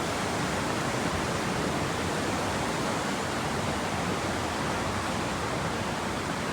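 Roaring water rushing past close by: a steady, unbroken rush of noise that does not change.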